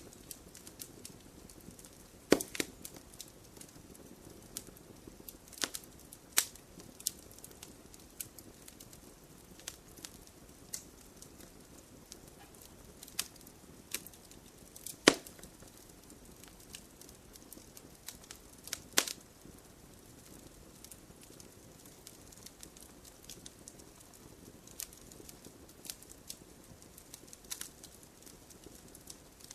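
Campfire burning with irregular crackles and pops over a low hiss, a few sharper loud pops standing out, the loudest about halfway through.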